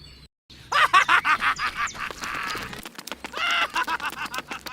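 Chicken cackling: a strong opening call that breaks into a quick run of clucks, heard twice, with a brief hiss between the two.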